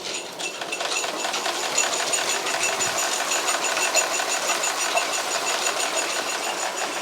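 Water pump motor starting up and running steadily with a fast, even chatter, pumping water out of a small pond.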